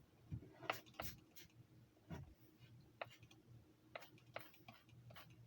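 Faint, irregular clicks and light taps, about eight over the few seconds, over a low steady hum.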